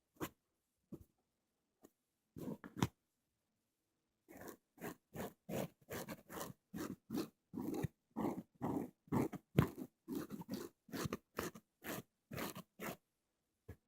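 Crunchy scratching strokes of an ear-cleaning tool rubbed against the microphone. There are a few scattered strokes at first, then a quick run of strokes, about two or three a second, from about four seconds in until near the end.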